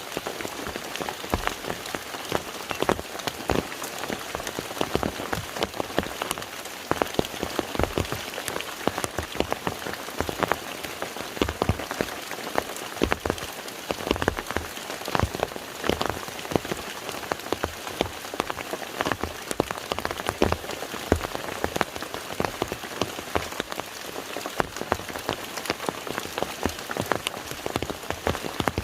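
Rain falling on a lake: a steady hiss of rainfall with many separate drops striking the water close by.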